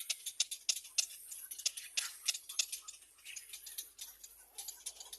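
Rapid, irregular dry clicks and ticks, several a second, from birds preening and shifting about in the nest.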